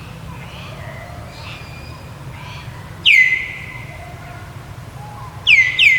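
Loud, shrill whistle-like animal calls, each sliding quickly down and then held briefly: once about three seconds in and twice in quick succession near the end. Fainter short chirps sound between them over a steady low hum.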